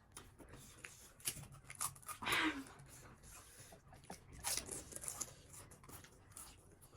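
Crisp panipuri shells crunching as they are bitten and chewed, a scatter of small sharp crunches, with a short breathy vocal sound about two seconds in.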